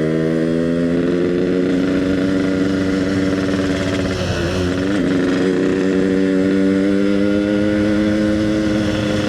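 Yamaha RX-King's two-stroke single-cylinder engine running on the move through an EnzyProject exhaust, at a steady pitch. About four seconds in the pitch dips briefly, then picks up again.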